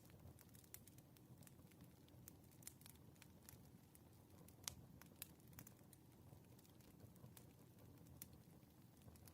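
Faint crackling wood fire: a soft steady rumble with irregular sharp pops and snaps, the loudest pop about halfway through.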